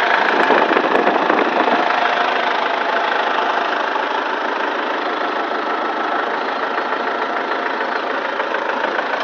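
Kubota M108S tractor's diesel engine running steadily at idle while air is bled from its fuel injection system, with a dense mechanical clatter.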